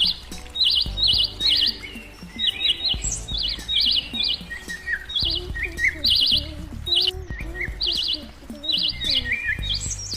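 Small birds chirping in short, rapid trills, several groups a second, repeating through the whole stretch over a low background.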